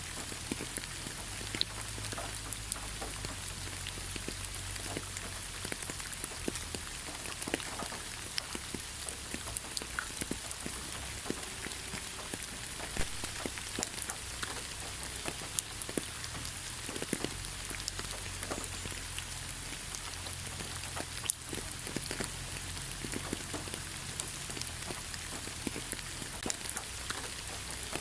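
Steady rain falling in a forest, with a constant hiss and many scattered individual drops pattering close by.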